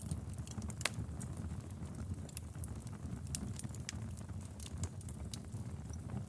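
Wood fire burning in a fireplace: a steady low rumble of flame with scattered sharp crackles and pops, one louder pop a little under a second in.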